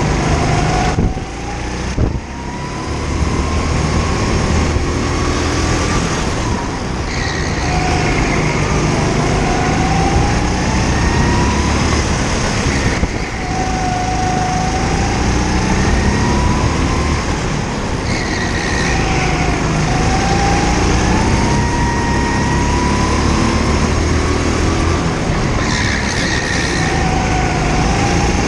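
Go-kart engine heard from on board the kart, revving up and down through a lap: its pitch climbs along each straight and drops back as the throttle is lifted for the corners, every two to four seconds.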